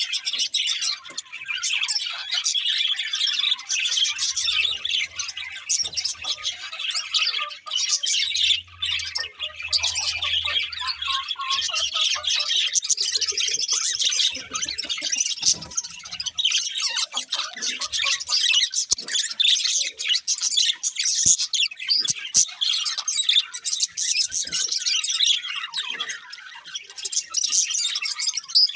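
Budgerigars chirping and chattering without a break, a dense stream of quick, high chirps and warbles.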